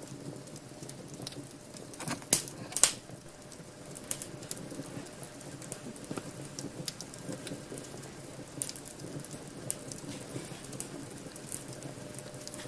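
Fire crackling in a fireplace: irregular sharp pops and snaps over a low steady rush, with a cluster of louder pops about two to three seconds in.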